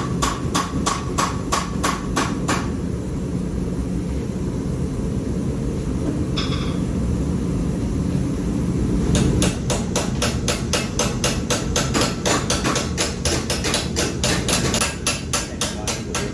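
Hand hammer striking metal being forged, spreading the end of a small pendant: a quick run of blows at about four a second, a single ringing blow, then a longer fast run of blows, over a steady low rumble.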